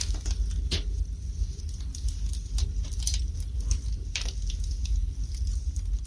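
Wood fire burning in a fireplace: a steady low rumble of the flames with irregular crackles and pops from the burning logs, a few each second.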